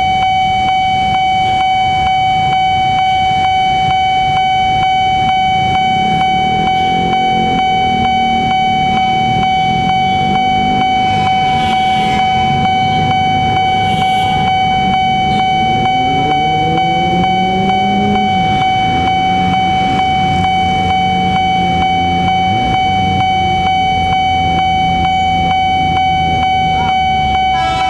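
Railway level-crossing warning alarm sounding one steady high tone without a break, over the running engines of road vehicles waiting at the crossing.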